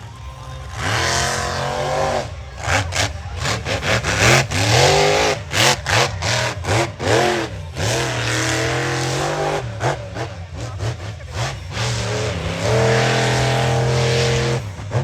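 Monster truck engine revving hard under repeated throttle stabs, its pitch sweeping up and dropping off sharply again and again, then held at high revs for about two seconds near the end.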